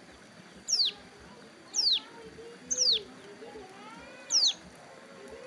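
Ciblek gunung, a prinia, calling with sharp high notes that each sweep steeply downward, four times about a second apart. A fainter wavering lower call from another bird sits underneath near the middle.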